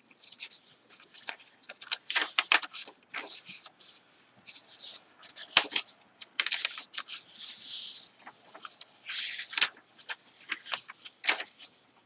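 Paper pages of a handmade journal being turned and handled: a run of crisp rustles, crinkles and light taps, with a longer sliding paper sound about seven to eight seconds in.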